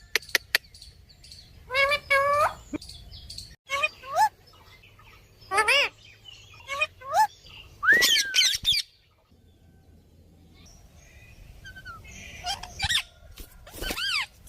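Pineapple conures (green-cheeked conures) giving short, repeated chirps and calls, each a brief pitched note that bends up or down. The calls pause for a few seconds past the middle and then start again near the end.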